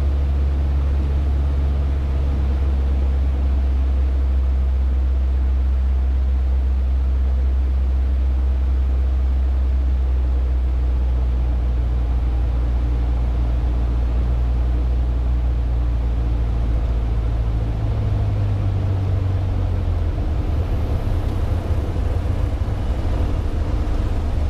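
Cessna 150's Continental O-200 four-cylinder engine and propeller droning steadily. About 18 seconds in, the engine note shifts and turns rougher.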